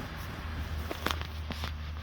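Several light clicks and taps, about a second in and near the end, over a low steady hum.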